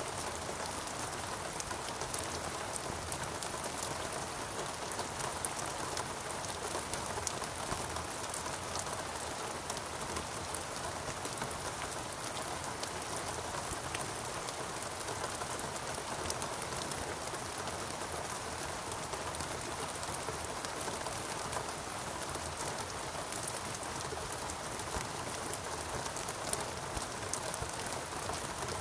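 Steady rain falling on foliage, a dense even hiss with many fine drop patters throughout.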